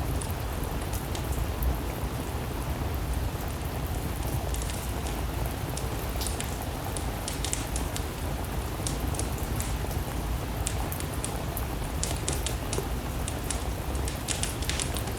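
Steady rain mixed with a crackling wood fire: a constant low rushing noise with scattered sharp pops and ticks throughout.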